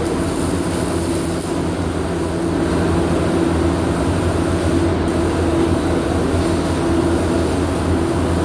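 Steady machine hum: a constant low drone with a few held tones over a rumble, unchanging throughout.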